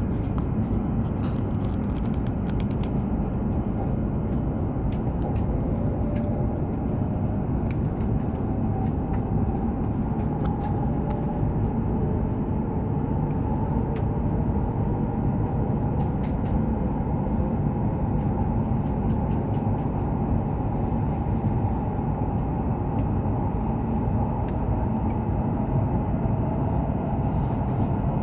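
Hokuriku Shinkansen train running at speed, heard inside the passenger cabin: a steady low rumble of wheels and air, with a faint motor whine that drifts slightly in pitch.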